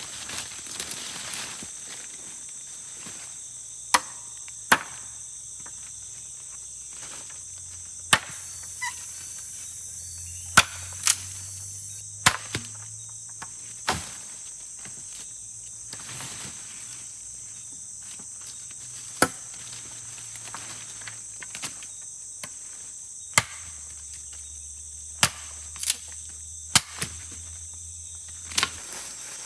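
A steady, high-pitched chorus of forest insects, broken by about a dozen sharp, irregularly spaced knocks.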